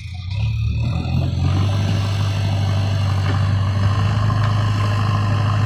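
Heavy diesel engine running, getting louder over the first second and a half, then holding a steady low drone.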